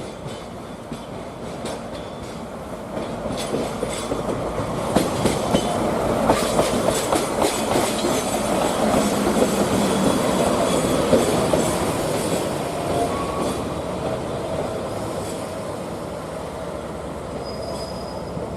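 DE11 diesel shunting locomotive running light through the station yard: rail noise swells and eases off as it passes, with wheels clacking over rail joints and points and a faint wheel squeal.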